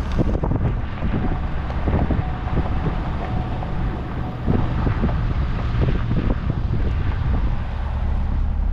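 Vehicle driving slowly: a steady low engine and road hum with irregular small knocks and rattles, and wind buffeting the microphone.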